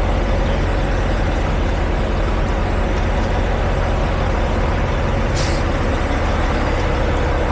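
Semi truck's diesel engine idling in a steady low rumble, with one short burst of air hiss about five seconds in, typical of an air brake releasing.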